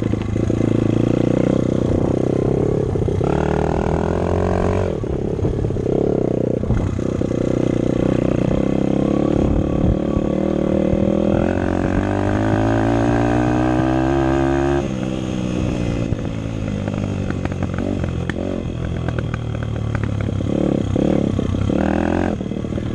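Dirt bike engine running under the rider, revving up and down with the throttle. About ten seconds in the pitch climbs steadily for several seconds, then falls away sharply as the throttle comes off.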